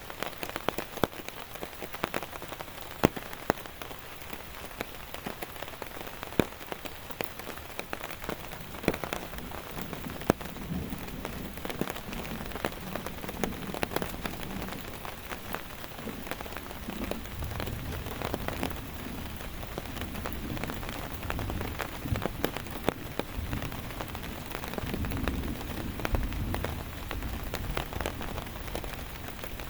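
Steady rain, with many sharp individual drops striking close by. A low rumble comes and goes in the second half.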